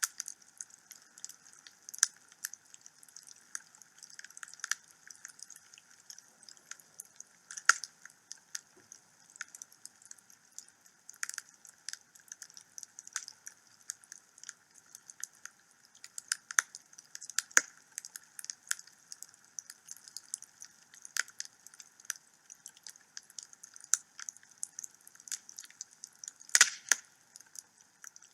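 Wood fire burning in a fireplace, crackling with frequent irregular pops and snaps over a soft hiss; the loudest pops come about two seconds in, near eight seconds, and a bunch near the end.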